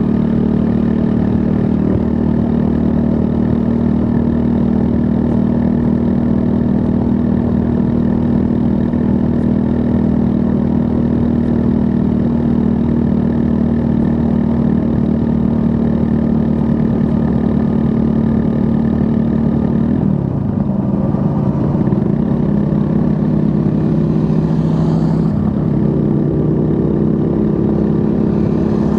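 2024 Triumph Scrambler 400 X's 398 cc single-cylinder engine running at steady revs under way; about two-thirds through the revs fall away as the throttle closes, then build again and step up near the end.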